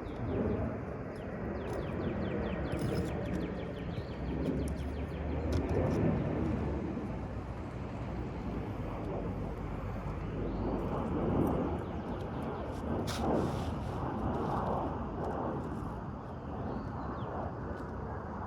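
Old asphalt shingle and roofing nails being pried out: scraping and rustling with scattered clicks and knocks, one sharper knock about two-thirds of the way through, over a steady low rumble.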